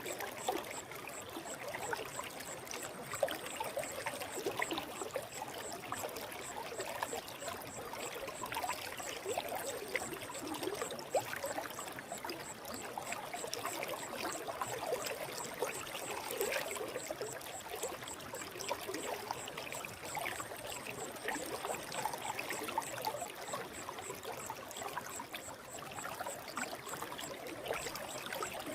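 Forest river flowing: a steady rush of water with constant small gurgles and splashes.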